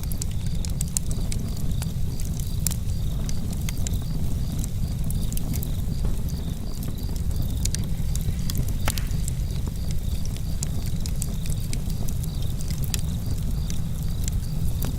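Campfire burning: a steady low rumble under frequent sharp crackles and pops of burning wood.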